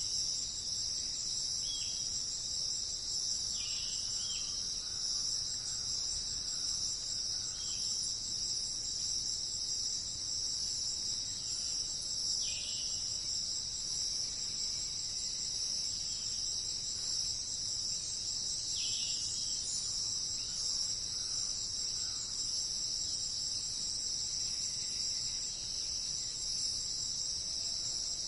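A steady, unbroken high-pitched chorus of insects, with a few short, falling chirps dotted through it.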